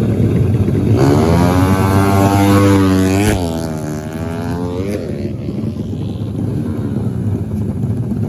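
Dirt-bike engine accelerating hard, its pitch rising, with a sudden drop and climb again about three seconds in as it shifts gear, then fading into a lower, steady engine drone.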